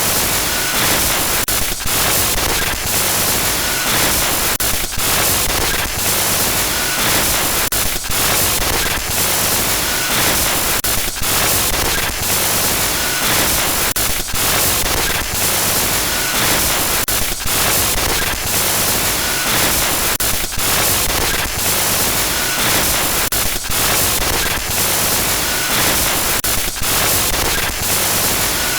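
Loud, harsh digital glitch noise: a continuous static hiss across the whole range, broken by frequent brief dropouts, with the same pattern looping about every three seconds.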